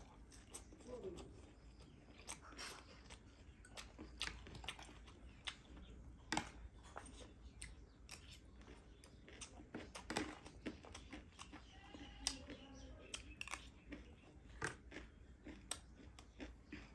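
Close-miked chewing: irregular sharp crunches and wet mouth clicks as a mouthful of lettuce leaf and crispy chatpate is bitten and chewed.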